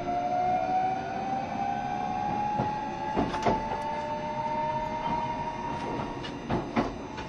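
JR Shikoku 7200 series electric train running, with the whine of its inverter-driven traction motors rising steadily in pitch as the train gathers speed. Wheels rumble on the rail throughout, with a knock from a rail joint about halfway and a quick double knock near the end.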